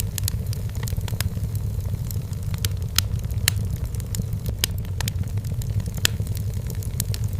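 Wood fire burning in a fireplace: a steady low rumble of the flames with irregular sharp crackles and pops from the firewood, several a second.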